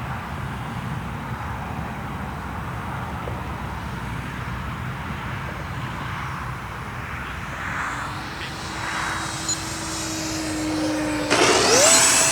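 Radio-controlled model airplane's motor during a touch and go: it runs at low power, with a steady tone coming in near the end. About a second before the end the throttle is pushed up, and the motor rises in pitch to a louder, high whine for the climb-out.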